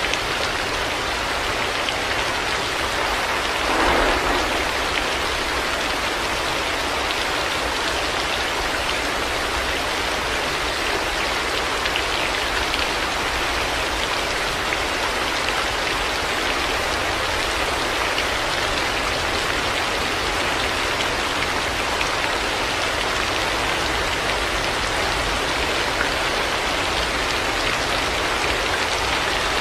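Heavy rain falling steadily: a dense, even hiss of drops on surfaces, with a brief louder swell about four seconds in.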